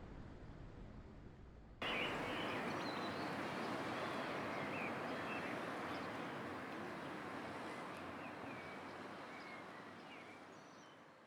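A low rumbling background noise cuts abruptly, about two seconds in, to an outdoor ambience: a steady hiss with scattered short bird chirps. The ambience fades out near the end.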